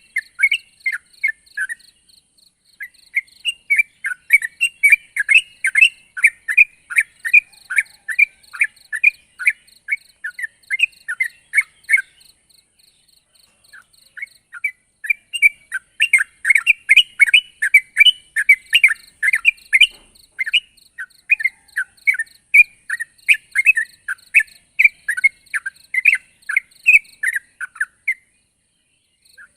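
Yellow-vented bulbul (trucuk) in full song: long, fast runs of short chattering whistled notes, several a second. The song breaks off briefly twice, once for a few seconds near the middle.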